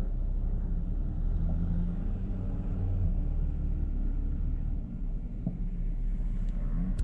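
Jeep engine running at low speed off-road, a steady low rumble that swells briefly about two to three seconds in.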